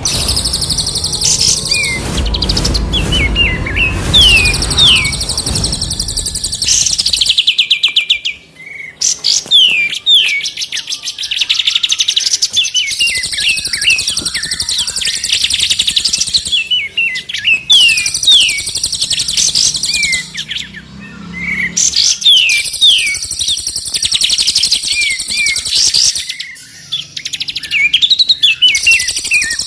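Layered songbird song from a masteran training track mixing three birds. It is a dense, continuous stream of high chirps and trills, broken by repeated quick sweeping whistles, with brief lulls twice.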